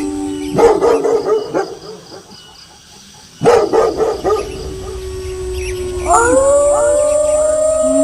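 Wolves howling with dogs barking: a held howl, bursts of barking about half a second in and again about three and a half seconds in, then several howls rising together into a chorus from about six seconds in.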